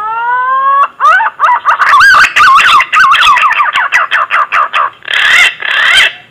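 Green pigeon (punai) song: a rising whistle about a second long, then a quick run of wavering, warbling whistled notes, ending in two rougher, breathier notes.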